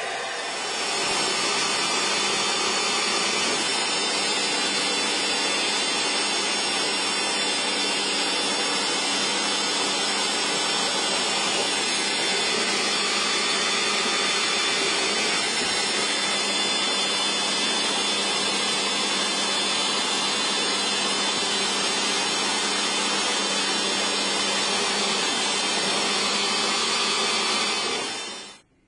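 A power tool running steadily under load, with a faint steady hum under a dense, even noise. It builds to full level about a second in and cuts off suddenly near the end.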